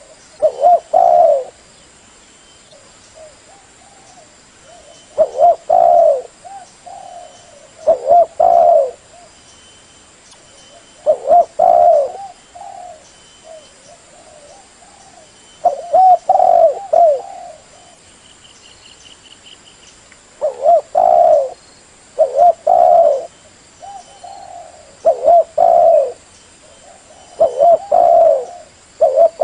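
Spotted dove (cu gáy) cooing: short phrases of a few low, hollow coos repeated every few seconds, nine phrases in all. This is the territorial call played as a decoy to draw wild spotted doves.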